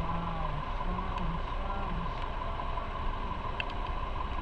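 Motorcycle running at road speed, with steady wind rush and rumble over the microphone.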